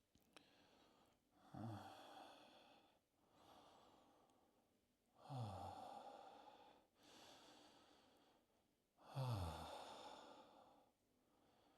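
A person breathing deeply and sighing: three long, audible exhales about four seconds apart, each starting with a low voiced note that falls in pitch, with quieter in-breaths between them. Deep breaths of someone overcome by a rush of feeling and taking a moment to settle.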